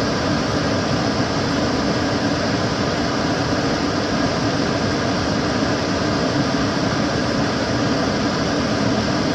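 Kitchen cooker hood extractor fan running steadily, a constant rush of air over a low hum.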